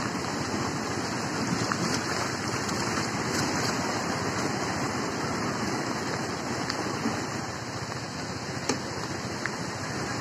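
Lahar floodwater rushing in a steady, heavy wash of noise, with a few sharp clicks over it near the end.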